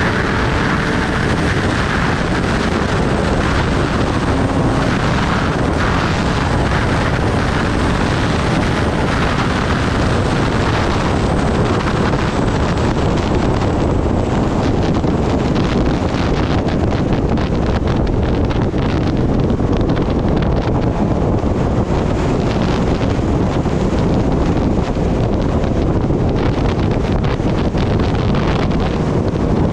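Steady, heavy wind noise buffeting the microphone of a Kawasaki Ninja ZX-10R sport bike being ridden at speed, with the motorcycle's engine running beneath it.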